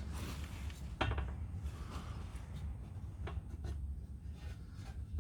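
Hands working on exhaust pipe joints: light rubbing and scraping with a few small knocks, the sharpest about a second in, over a low steady rumble.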